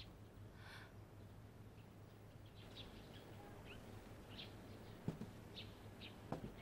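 Faint background ambience: short, high bird chirps scattered through it over a steady low hum, with a couple of soft thumps near the end.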